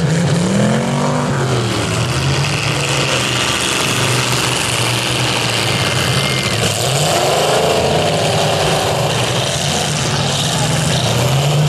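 Several demolition-derby cars' engines running together under load, with a steady drone and engines revving up and down about a second in and again around seven to nine seconds in.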